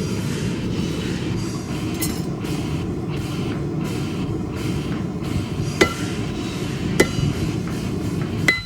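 Propane forge burner running with a steady roar, with three sharp metallic clinks that ring briefly about six, seven and eight and a half seconds in, steel tapped or set down.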